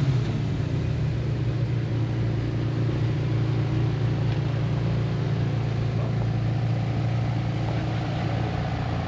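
A car engine idling steadily, a low, even drone that holds the same pitch throughout.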